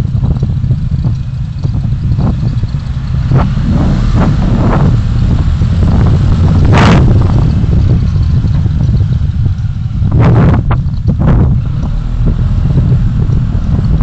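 Car driving, heard through a dashcam inside the cabin: a heavy, steady low rumble of road and engine noise, broken by several short sharp knocks or rattles, the loudest about seven seconds in and two more about ten and eleven seconds in.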